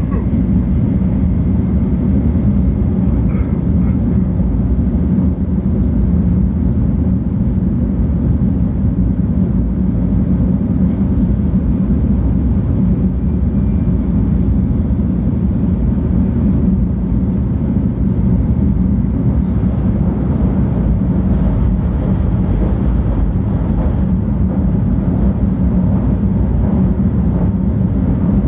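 Interior running noise of a 700 series Shinkansen train: a steady low rumble with a hum, unchanging throughout.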